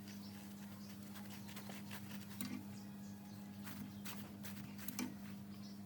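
Faint, scattered light clicks and taps, about half a dozen, over a steady low hum.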